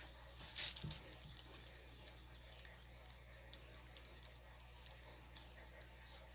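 Stir stick scraping and tapping inside a cup as acrylic paint and Floetrol are stirred: faint scattered scratchy ticks, with a louder scrape about half a second to a second in.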